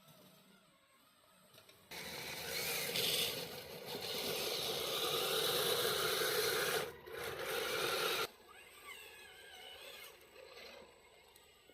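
A radio-controlled scale truck running over the ground, a dense mechanical noise that starts abruptly about two seconds in, runs for about six seconds with a brief dip, and cuts off suddenly.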